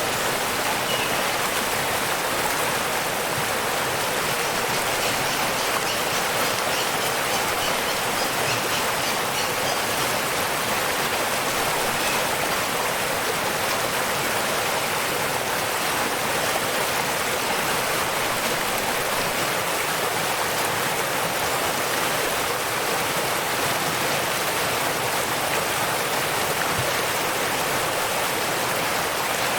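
Waterfall: a steady, even rush of falling water, mostly a hiss with little low rumble.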